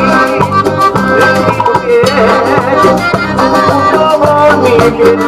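Cumbia band playing live: an instrumental passage between sung lines, with a melody carried over a steady percussion beat and bass.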